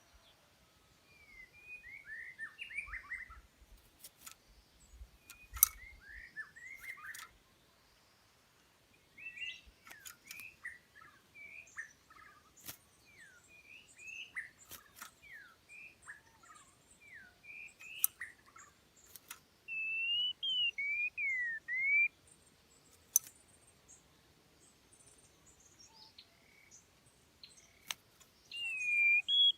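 A songbird singing in quick, varied twittering phrases of chirps. A louder, clear whistled phrase comes about two-thirds of the way in and again at the very end. A few sharp clicks sound now and then.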